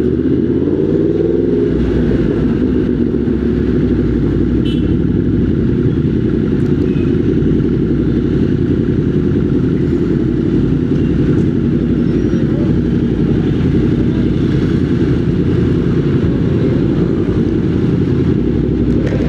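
Motorcycle engine running while riding, a steady drone, with the engine pitch rising and falling over the first couple of seconds.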